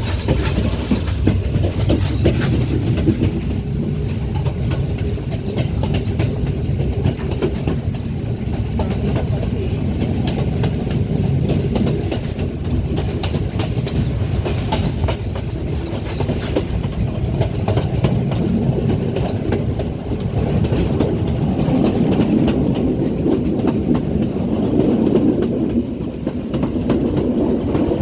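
Passenger train running steadily, its wheels clattering over the rail joints with a continuous low rumble.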